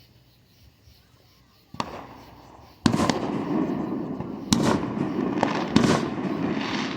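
Fireworks going off: one bang about two seconds in, then from about three seconds a louder run of sharp bangs, with a continuous rumbling crackle between them that slowly fades.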